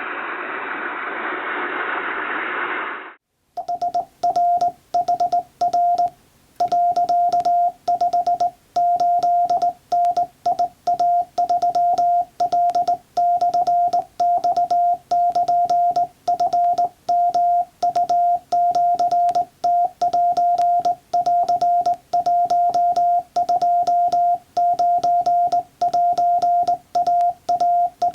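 Morse code sent by hand on a straight telegraph key: a single steady sidetone beep, roughly 700 Hz, keyed on and off in dots and dashes, with faint clicks at each stroke. It starts about three and a half seconds in, after a few seconds of hiss-like noise.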